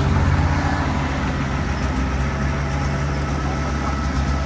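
Diesel engine of heavy earthmoving machinery running steadily with a low hum.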